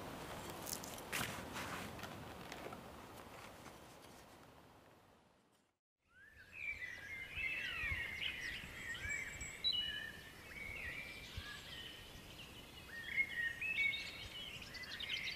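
Several birds singing, a busy mix of short chirps and quick whistled phrases, beginning about six seconds in. Before that, a few faint clicks and rustles die away to silence.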